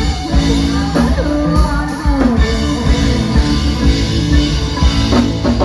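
Live rock band playing: drum kit, electric guitar and bass, with singing.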